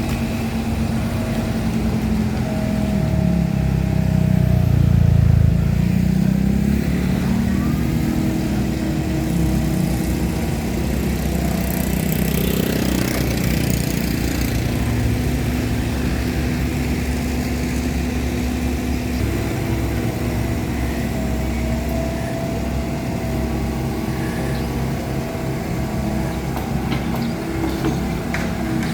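An engine running steadily, its pitch shifting now and then and its level swelling about five seconds in.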